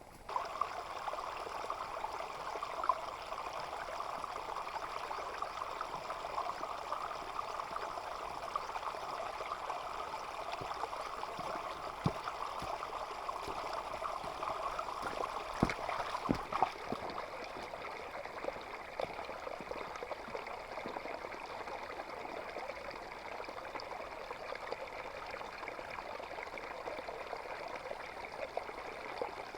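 Water running steadily in a pouring stream, with a few light knocks around the middle.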